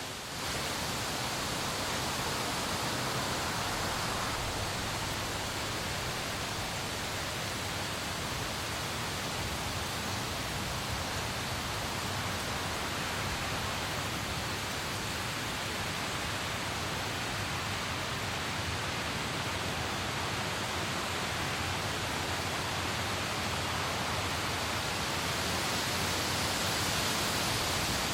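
Steady, dense hiss of heavy rain falling, even throughout, with no thunder.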